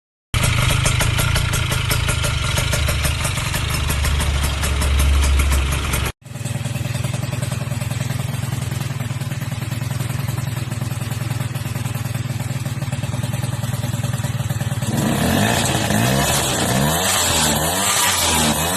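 Sanex QJ50 motorbike engine running through its aftermarket exhaust, held steady for most of the time with a sudden break about six seconds in. In the last few seconds it is revved, the pitch rising and falling repeatedly.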